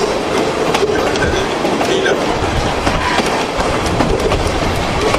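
Passenger train rolling along the track, heard from inside the coach: a steady rumble with irregular clicks of the wheels over rail joints.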